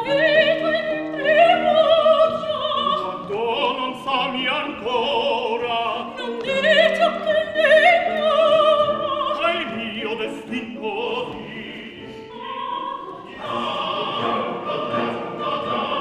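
Operatic singing with vibrato over classical accompaniment.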